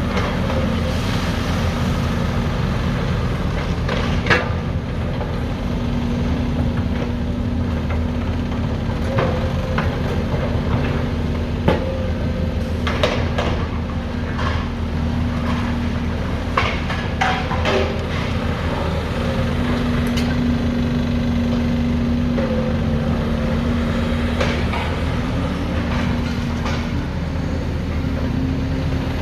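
Heavy machinery at a demolition site: a large engine running steadily, its pitch wavering slightly, with scattered knocks.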